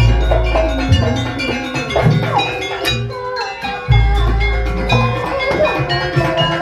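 Javanese campursari ensemble playing: ringing metallic gamelan-style tones over drum strokes and deep bass booms in a steady rhythm, with a short lull about three seconds in.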